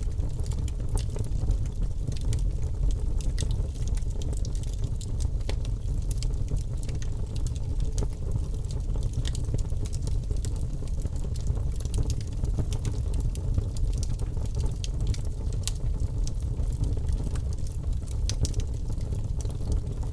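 Wood fire in a fireplace crackling: frequent sharp pops and snaps, irregularly spaced, over a steady low rumble of the burning fire.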